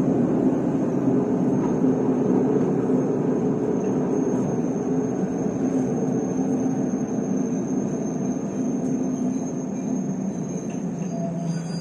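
Running noise of a diesel-hauled local train heard from inside the carriage, a steady rumble and hum that slowly eases as the train slows on its arrival at a station.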